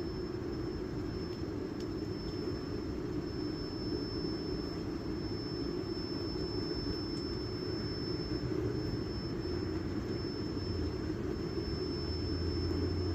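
A vehicle running: a steady low rumble with a thin, constant high whine.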